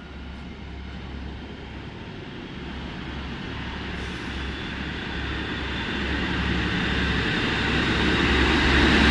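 A train running past, a steady rumble growing gradually louder.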